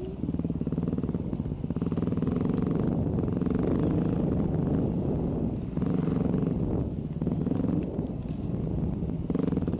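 Enduro motorcycle engine running as the bike is ridden, the note rising and falling with the throttle and easing off briefly a few times in the second half.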